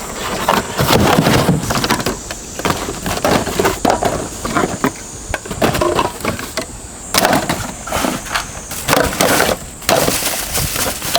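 Household objects clattering and knocking as they are handled and set down, a rapid, irregular run of knocks and rattles.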